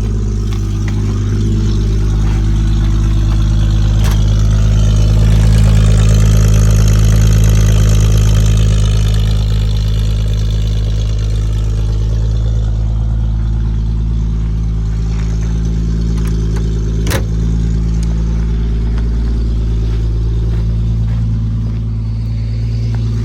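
1968 Triumph Vitesse's straight-six engine idling steadily just after a cold start on a near-freezing morning. The note swells a little about five to nine seconds in, then settles, and there is one sharp click about 17 seconds in.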